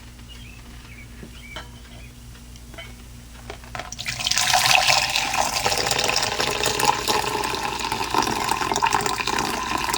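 Coffee poured from a drip coffee maker's carafe into a mug, starting about four seconds in and running steadily until the end, after a few faint clicks of handling.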